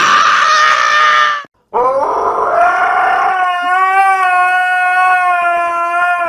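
An animal's loud, drawn-out cry, then a second, longer one that rises at first and holds steady for about four seconds.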